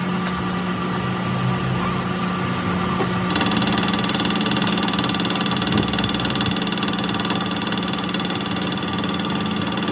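A workshop machine's motor running steadily with a constant hum; about three seconds in its sound brightens as a higher-pitched whine joins, as when the tool takes up work.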